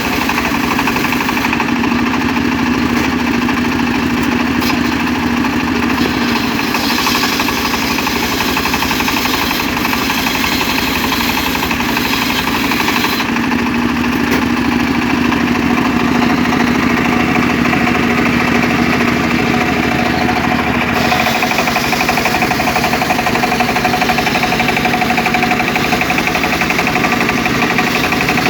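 Engine of a homemade mobile circular sawmill running steadily, its tone shifting slightly about halfway through and again about two-thirds of the way in.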